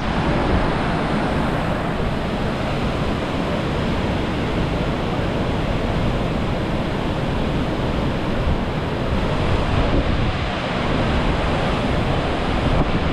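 Flood water released through Derjang Dam's open gates: a loud, steady rush of falling water.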